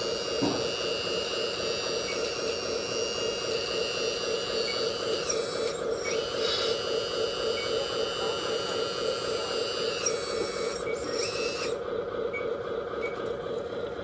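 Steady electric hum with a high whine from a 1/14-scale RC hydraulic dump truck. The whine shifts in pitch about five seconds in and again near ten seconds, then stops near the end while the hum carries on.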